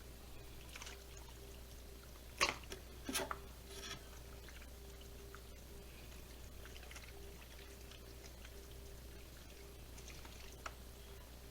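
Quiet room with a steady low hum, broken by a few sharp clicks or clinks about two and a half and three seconds in, and a lighter one near the end.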